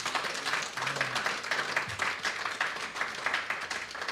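A church congregation applauding, many hands clapping at once in a dense, steady patter.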